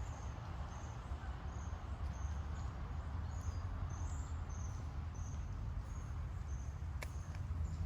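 An insect chirping: short, high chirps repeated about every half second, over a steady low rumble. A single sharp click near the end.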